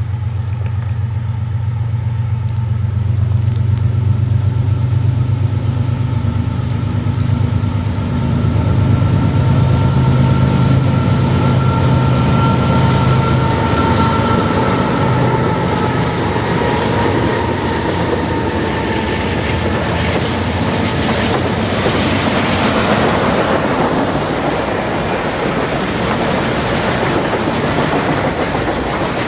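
Freight train passing: diesel locomotives go by with a deep engine hum and a steady whine, and about halfway through this gives way to the rolling noise of freight cars on the rails.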